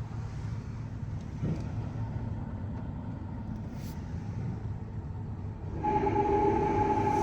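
Mark VII AquaJet GT-500 touch-free car wash machinery running with a low steady rumble. About six seconds in, a louder motor with a steady whine starts up.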